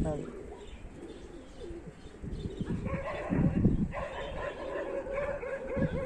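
Domestic pigeons cooing. A wavering, pitched cooing starts about halfway through and goes on, with some low rustling underneath.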